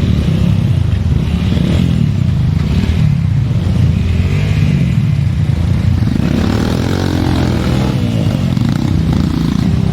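Trail dirt bike engine running continuously, its pitch rising and falling with the throttle from about six seconds in.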